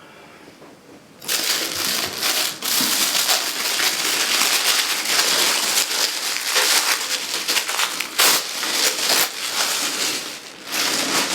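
Packaging wrap being pulled off and crumpled by hand: a dense, irregular crackling that starts about a second in.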